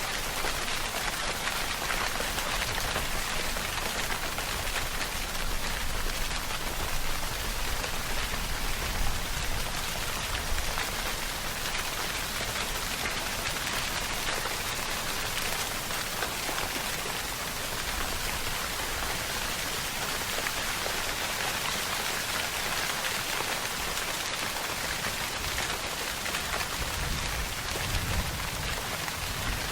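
Steady rainfall, with drops pattering on a surface in a continuous even hiss.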